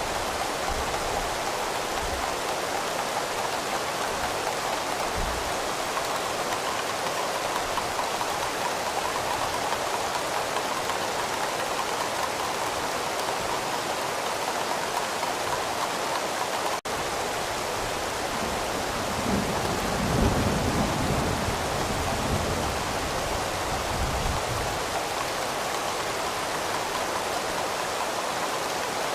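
Steady, heavy rain, with low rumbles of distant thunder about two-thirds of the way in. The sound drops out for an instant near the middle.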